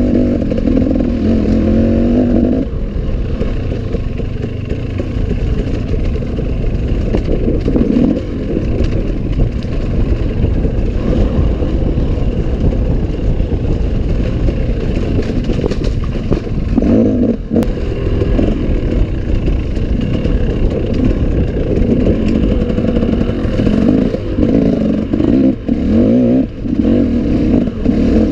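Enduro motorcycle engine revving up and down under hard throttle as it climbs and rides over rough forest ground, with rattles and knocks from the bike. The revs are highest at the start and again in bursts over the last few seconds.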